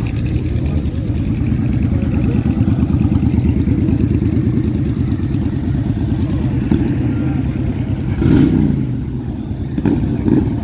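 Motorcycle engines running at a busy roadside gathering, a steady low rumble, with one bike's engine rising in pitch and growing louder about eight seconds in as it revs or pulls away.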